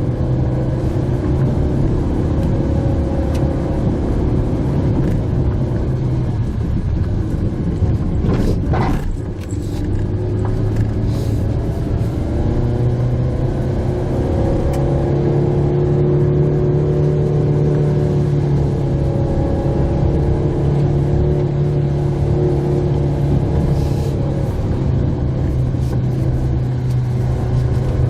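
Mitsubishi Pajero Mini's small engine running steadily as it drives a rough mountain forest road, heard from inside the cabin with tyre and road noise; the engine pitch rises and falls a little as the speed changes. A brief whoosh of noise comes about eight seconds in.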